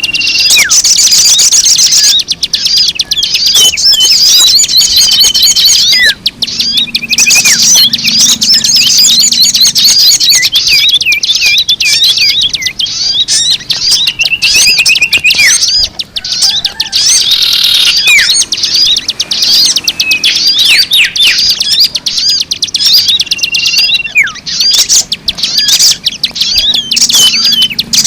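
Dense, unbroken chatter of many birds chirping and twittering in quick overlapping calls, with a short steady high whistle now and then. It is a bird-lure recording meant to draw in birds of all kinds, played loud.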